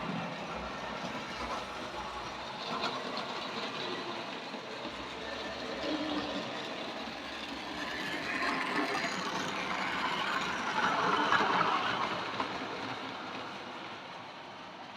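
Tri-ang Princess Elizabeth model locomotive running around an OO-gauge layout: a steady whir of its electric motor and wheels on the track. It swells louder as it passes close, about two-thirds of the way through, then fades away near the end.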